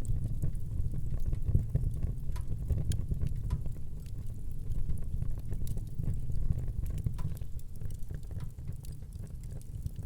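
Wood fire burning in a fireplace, with a steady low rumble of flames and frequent small, irregular crackles and pops.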